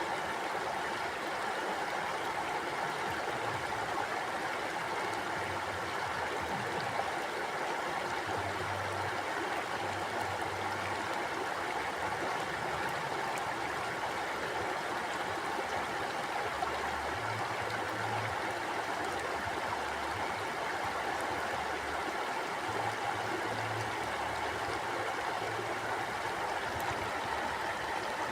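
Mountain stream flowing and gurgling over rocks, a steady rushing of water.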